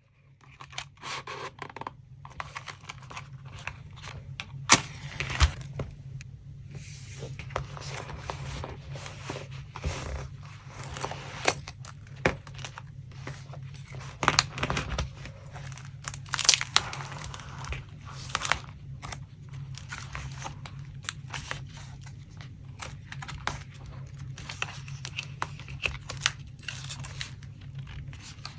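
Paper scraps and scrapbooking materials being handled: irregular rustling and crinkling with short tears, light taps and clicks, over a steady low hum.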